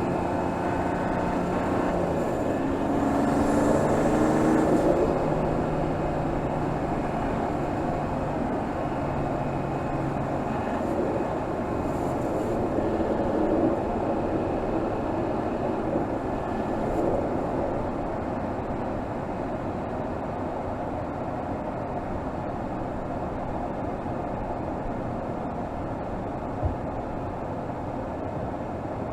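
Mercedes GLS 450's 3.0-litre turbocharged inline-six engine, heard from under the hood, running during slow city driving. Its pitch shifts over the first ten seconds, then it settles into a steadier, slightly quieter running sound, with one short click near the end.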